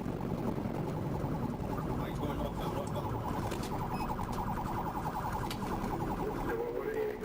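Police car siren sounding with a fast pulsing warble, over the steady engine and road noise of a pursuing cruiser.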